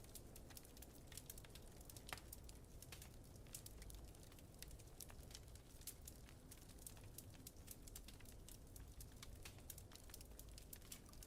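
Wood fire in a fireplace crackling, many small irregular snaps and pops over a steady low rumble.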